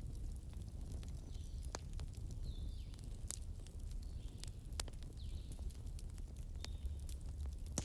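Wood campfire crackling, with scattered sharp pops over a steady low rumble. A bird's short, high, falling calls repeat every second or so in the background.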